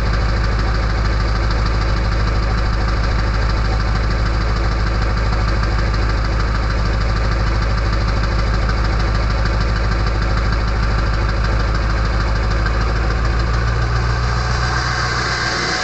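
Straight-piped 7.3L Power Stroke V8 diesel of an early 1999 Ford F-250 on cold-start high idle. About fourteen seconds in, the exhaust back pressure valve closes: the deep exhaust note drops away and a loud whistling noise rises in its place.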